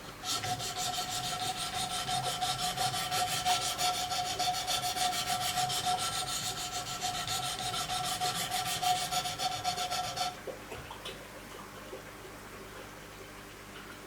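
Wicked Edge sharpening stones stroked quickly and evenly along a fixed knife blade, a rapid rasping scrape over a steady ringing tone. It stops abruptly about ten seconds in.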